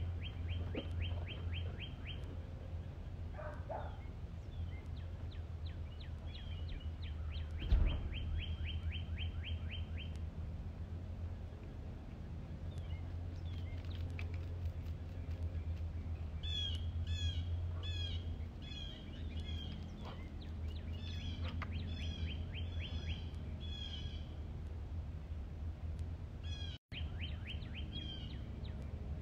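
Wild birds singing: a rapid trill of quick high notes twice in the first ten seconds, then strings of repeated chirps through the second half. A steady low hum runs underneath, with a single thump about eight seconds in.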